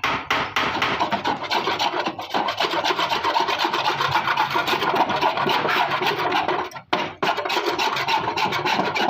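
Rapid, irregular rubbing strokes of paint being stripped from a Suzuki Wagon R's sheet-metal fender, stopping briefly about seven seconds in.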